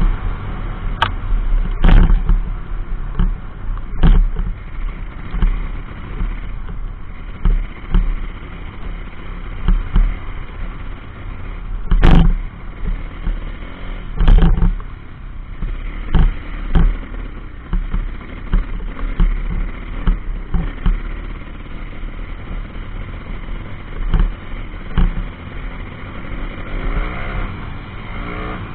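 A 140cc pit bike's single-cylinder four-stroke engine running on a ride. The engine revs up and down just after the start and again near the end, with repeated sharp thumps throughout.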